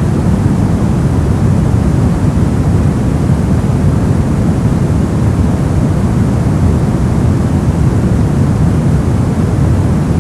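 Steady, unchanging synthetic noise, loud and deep, with most of its weight in the low end and little hiss on top.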